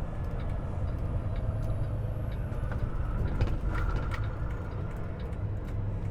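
Semi-truck running at low speed, heard from inside the cab: a steady low diesel drone and road noise, with scattered light rattles and ticks.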